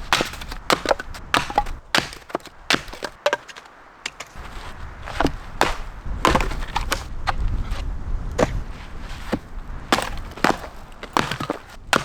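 Firewood being chopped and split: a run of irregularly spaced sharp wooden strikes with splintering cracks.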